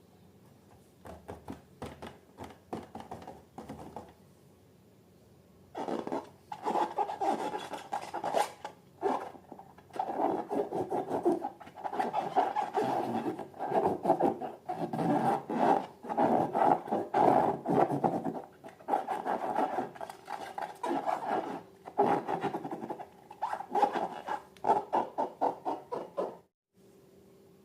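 Slime being worked by hand, a dense run of wet, crackly squishing and rubbing strokes that starts about six seconds in and goes on with short pauses. It is preceded by a few faint crackles.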